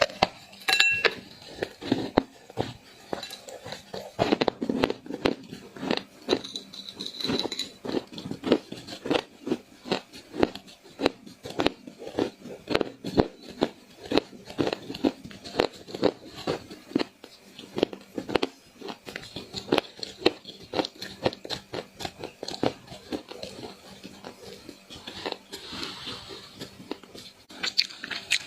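Dry clay crunching over and over, an irregular run of sharp crunches and cracks, about two to three a second.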